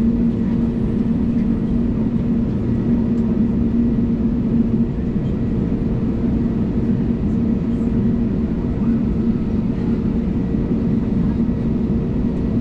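Cabin noise inside an Airbus A320neo taxiing at idle thrust: a steady engine drone with two low humming tones over a broad rumble.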